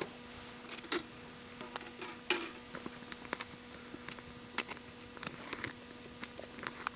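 Scattered light clicks and clinks of cooking gear being handled, the sharpest about one second and two and a half seconds in, over a steady low hum.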